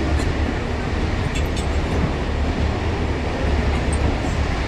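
Moving suburban passenger train heard from inside the carriage: a steady low rumble with a few light rattles.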